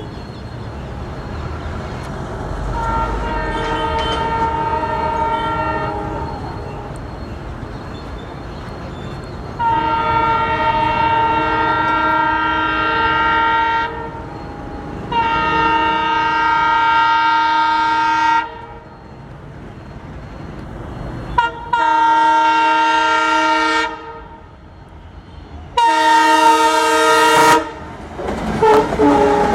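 Indian Railways ALCO diesel locomotive sounding its multi-tone horn for a level crossing: a fainter blast a few seconds in, then four long, loud blasts with short gaps between them, over the low rumble of the diesel engine.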